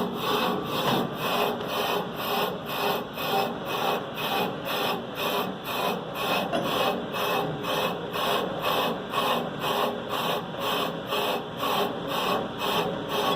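Bench brake lathe cutting a warped brake rotor: a steady metal-on-metal scraping that pulses about three times a second, as the cutting bit bites harder on the high spot of each turn. The rotor is warped and is being trued up.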